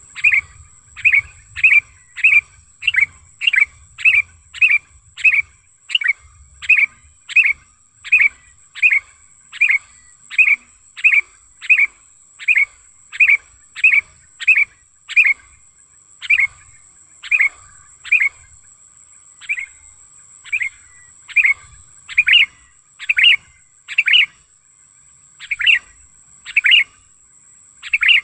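Sooty-headed bulbul (kutilang) giving a loud, rapidly repeated short call, about two a second. After about halfway the calls space out and become irregular. A faint steady high-pitched whine runs underneath.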